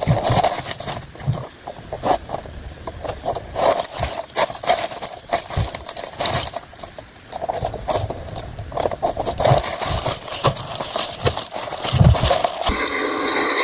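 Irregular knocking and scraping, with rustling between the knocks. Near the end this cuts off abruptly and a steady drone of several tones takes over.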